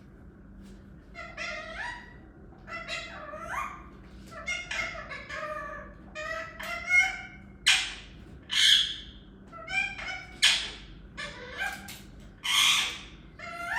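Pet talking parrot vocalizing: short warbling chatter at first, then several loud, harsh squawks in the second half.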